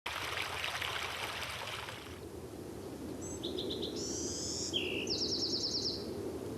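A songbird singing a few short, rapid high trills over a steady low background rumble. A fine crackling hiss fills the first two seconds.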